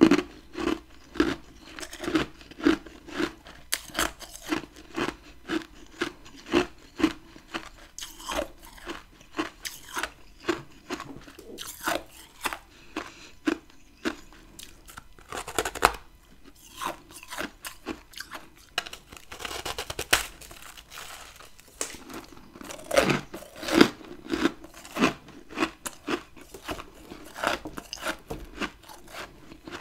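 Close-up chewing of freezer frost ice chunks: a steady run of crisp crunches, about two or three a second, with a couple of brief pauses between mouthfuls.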